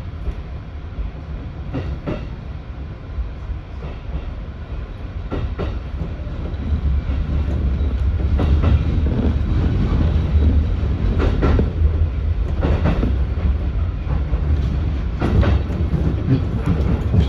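Train running over rail joints: pairs of clacks as the wheels of each bogie cross a joint, the pairs coming closer together as the train picks up speed, over a low rumble that grows louder.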